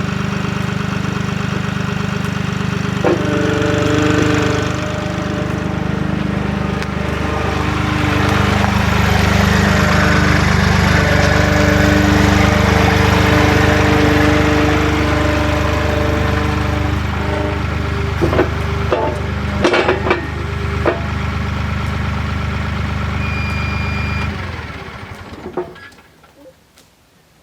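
Avant 755i compact loader's diesel engine running, with a higher whine over it that swells and eases in the middle. A few sharp metallic clanks come near the end, then the engine shuts off about 24 seconds in.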